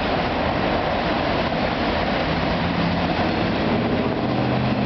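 CN freight train of auto-rack cars rolling past on an overpass: a steady, continuous noise of the passing cars and wheels on the rails.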